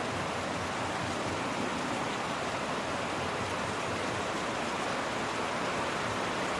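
Steady rainfall: an even, unbroken hiss of rain with no distinct drops or changes.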